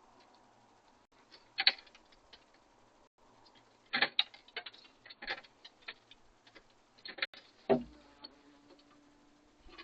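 Scattered sharp taps and clicks of birds pecking and landing at a feeder, a dozen or so at uneven intervals. Near the end a louder knock is followed by a low steady hum.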